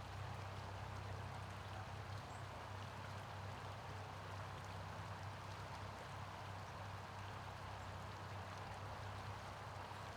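Steady outdoor background noise: an even hiss with a low hum running beneath it.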